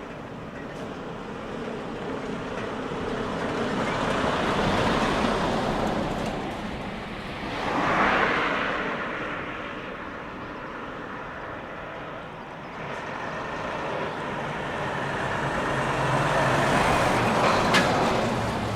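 Decorated heavy trucks with manifold-split (マニ割) exhausts driving past one after another, the open exhausts giving a loud engine note that swells and fades with each pass, about three times.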